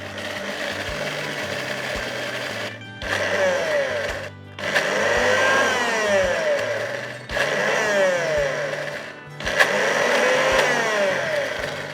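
Hamilton Beach Professional mixer grinder running on medium speed in manual mode, blending garlic, lemon juice, roasted red pepper and oil into a wet marinade. The motor noise drops out briefly three or four times.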